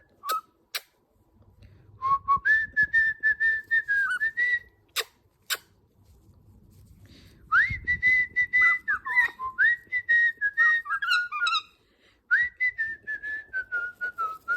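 Galah cockatoo whistling a tune in three phrases, each a wavering whistle chopped into quick pulses, with a few sharp clicks between the phrases.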